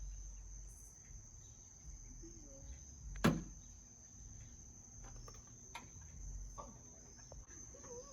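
Crickets chirping as a steady high-pitched trill, with one sharp knock about three seconds in and a few fainter clicks.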